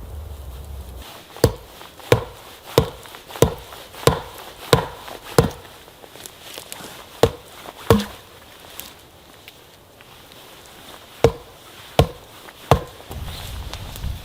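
Wood being chopped: twelve sharp strikes of a blade into wood, a quick run of seven about two-thirds of a second apart, then two more, a pause, and three more.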